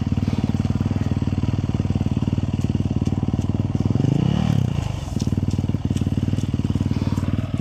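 Motorcycle engine running steadily at idle, revved once about four seconds in, its pitch rising and then falling back to idle.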